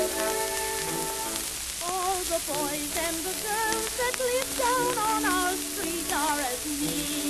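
Instrumental introduction of a 1910 acoustic-era phonograph recording. A sustained chord gives way about two seconds in to a melody line with strong vibrato, all over a steady hiss and crackle of record surface noise.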